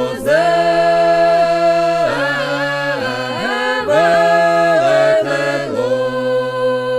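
Russian folk multi-voice singing without instruments: several voices hold long notes in close harmony over a low held tone, sliding between pitches and shifting notes a few times.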